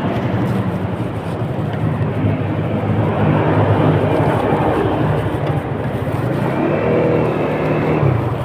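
Motor vehicle engine running steadily with road noise, with a short higher tone about seven seconds in.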